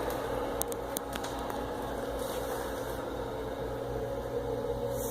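Steady machine hum with a low droning tone, with a few light clicks about a second in.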